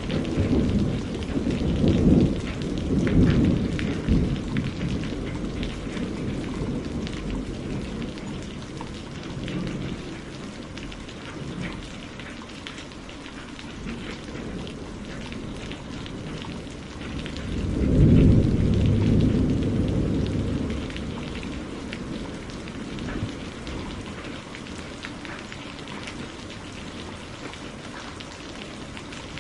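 Steady rain falling, with fine individual drop hits, under rolling thunder: one rumble dies away over the first few seconds, and another swells about eighteen seconds in and fades over the next few seconds.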